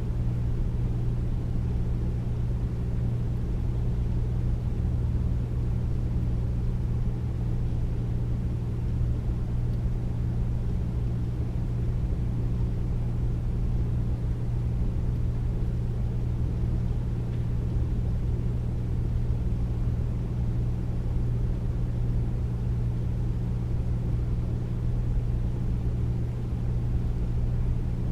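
Air conditioner running steadily: a deep, even hum with a low drone and airflow hiss, unchanging throughout.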